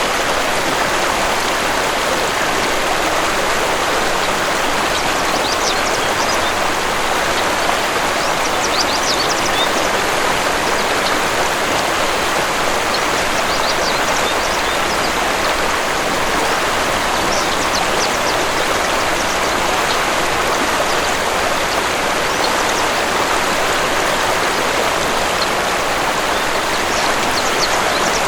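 Waterfall rushing steadily, with faint short bird chirps now and then above the water.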